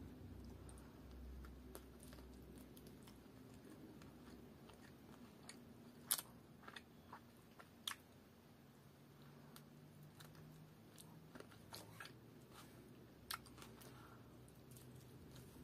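Faint close-up chewing of rice and chicken curry eaten by hand: quiet wet mouth sounds broken by scattered short clicks and smacks, the sharpest about six seconds in and again near the end.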